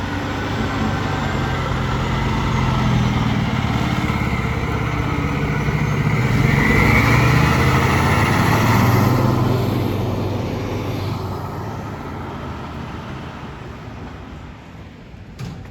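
Fire apparatus driving past on a response, its engine growing louder as it approaches, loudest about halfway through, then fading as it pulls away.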